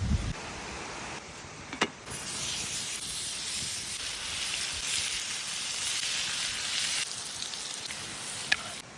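A steady hiss that starts suddenly about two seconds in and stops suddenly about five seconds later, with a sharp click just before it starts and another near the end.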